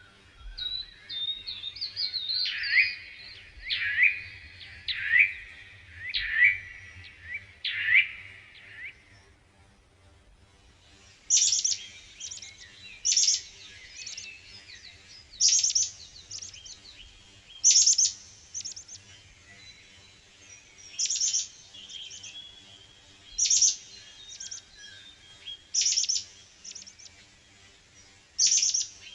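Birds chirping: a run of repeated calls for about nine seconds, a brief pause, then clusters of sharp, high chirps about every two seconds.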